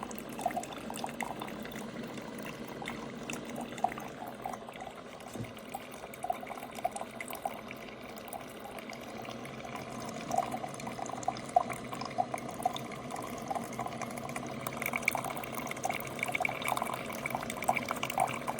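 Ninja DualBrew coffee maker brewing: hot water gurgling and trickling, with many small irregular pops and sputters that grow busier in the second half.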